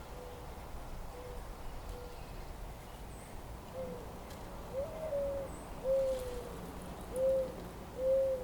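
A bird giving a series of short hooting notes, about one a second, faint at first and louder in the second half, over a steady low rumble of background noise.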